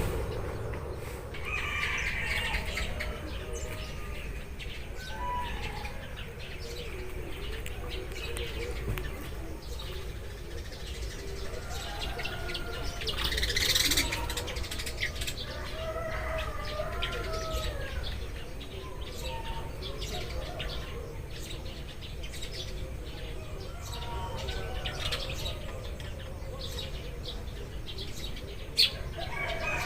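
A group of Eurasian tree sparrows chirping continuously in many short, overlapping calls over a steady low rumble.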